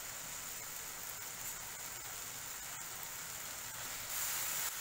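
Vegetable masala sizzling steadily in oil in a frying pan on the flame. About four seconds in it grows louder as a spatula starts stirring through it.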